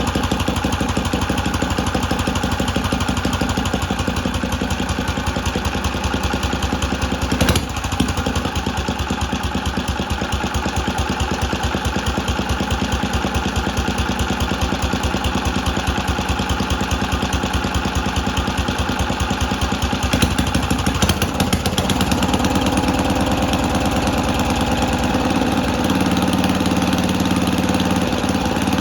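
Tecumseh 3.5 hp side-shaft single-cylinder four-stroke engine running steadily, warming up after a cold start on a freshly readjusted carburetor. There is a single sharp clack about seven seconds in. About three-quarters of the way through, the engine's note changes and it runs a little louder.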